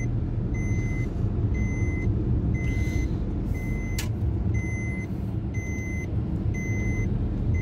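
Cabin noise of a Maruti Suzuki Alto 800's three-cylinder petrol engine and tyres while accelerating in fifth gear: a steady low rumble. Over it a high electronic beep repeats a little faster than once a second, and there is a single sharp click about four seconds in.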